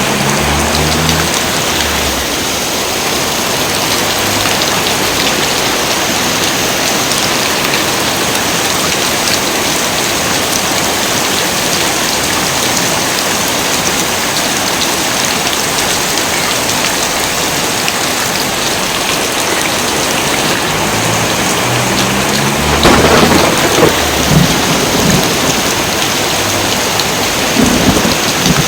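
Heavy rain pouring steadily. Thunder rumbles in about three-quarters of the way through, with a few louder cracks, and rolls again near the end.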